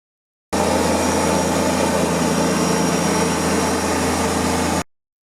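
Kubota tractor's diesel engine running at a steady speed with a constant low hum. It cuts in suddenly about half a second in and stops abruptly near the end.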